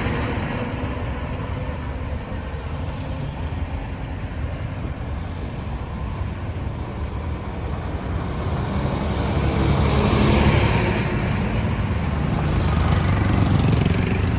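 Road traffic: engine rumble and tyre noise of vehicles on the road, swelling as vehicles pass about two-thirds of the way in and again near the end.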